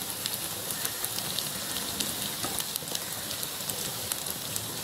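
Fish biryani masala and oil sizzling in the pot over a very low flame, a steady fine crackle.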